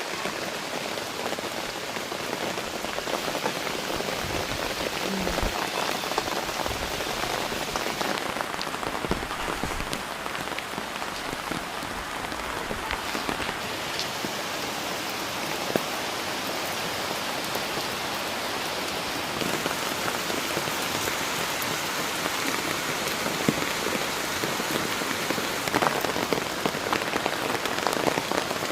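Steady rain falling: a dense hiss with many individual drops ticking on surfaces, getting a little heavier in the second half.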